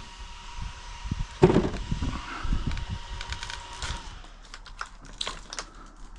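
Light clicks and knocks from the large RC truck's plastic body and tires being handled while checking where a tire rubs the body, with a louder thud about a second and a half in. A faint steady high tone stops about four seconds in.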